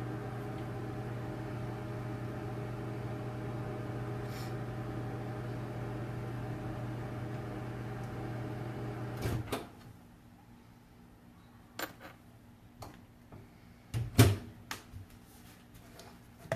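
Microwave oven running with a steady hum while melting peanut butter, then shutting off a little past halfway; light clicks and one louder knock follow, typical of the microwave door being opened and handled.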